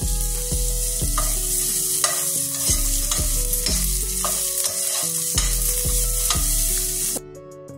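Onion and garlic sizzling in coconut oil in a stainless steel pan while a metal spoon stirs them, scraping and clicking against the pan, with the garlic browning. The sound drops away suddenly about seven seconds in.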